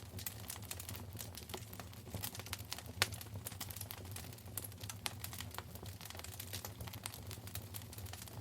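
Wood fire crackling in a fireplace: a steady run of small pops and ticks, with one sharper snap about three seconds in, over a low steady rumble.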